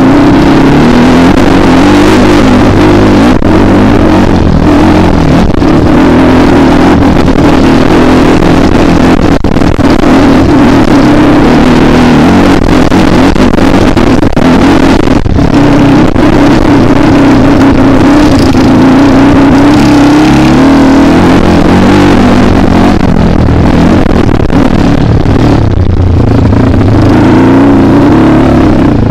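Kawasaki KLX dirt bike's single-cylinder engine running loud under load, its revs rising and falling continuously.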